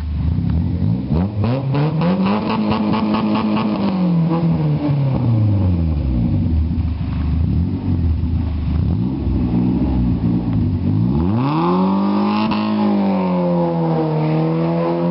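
Renault Clio II engine with a free-flowing straight-through exhaust and a cone air filter, revved up and down: it rises, holds high for a couple of seconds, falls back to a low idle, then revs again about eleven seconds in.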